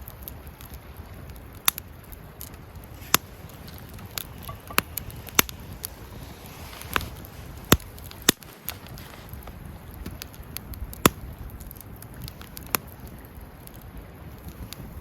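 Wood campfire crackling: about ten sharp, irregular pops over a low, steady rumble of burning.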